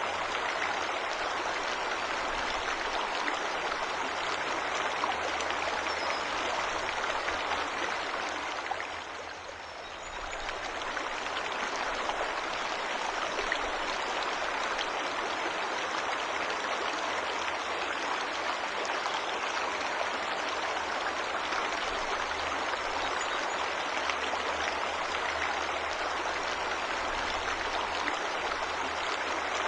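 Waterfall rushing steadily, an even wash of falling water that briefly softens about nine seconds in, then returns to full strength.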